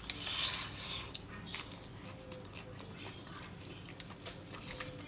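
Close-up mouth sounds of a person biting into and chewing tandoori chicken: a short noisy bite near the start, then soft chewing with scattered small clicks.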